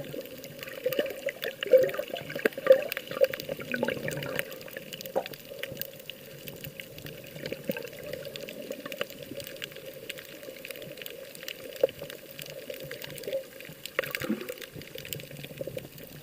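Seawater sloshing and splashing, with many small, irregular splashes.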